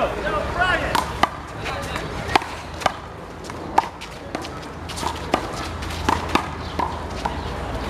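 One-wall handball rally: a rubber handball struck by open hands and smacking off the wall and court, a string of sharp, irregularly spaced hits.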